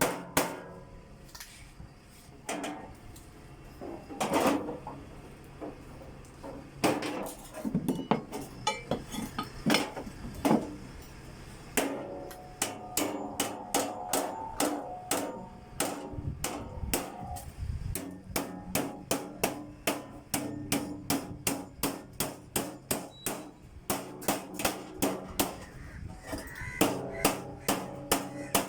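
Hammer striking sheet-metal HVAC duct over and over, about two to three blows a second, with a quieter, sparser stretch a few seconds in and steady fast blows near the end; the metal rings a little between strikes.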